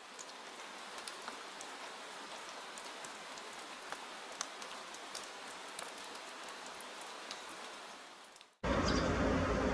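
Soft rain sound effect: a steady patter with scattered drop clicks, fading out about eight seconds in. It cuts abruptly to a louder, steady low rumble near the end.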